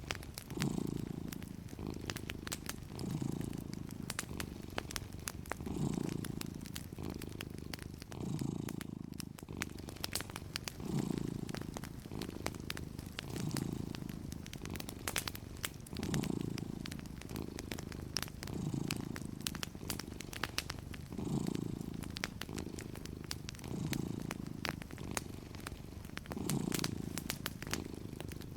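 Domestic cat purring steadily, swelling and easing with each breath about every two and a half seconds. Wood fire crackles with scattered sharp pops throughout.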